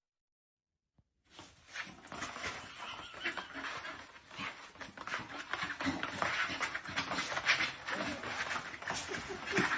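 A dog breathing noisily in a rapid run of short, rough strokes, starting about a second in.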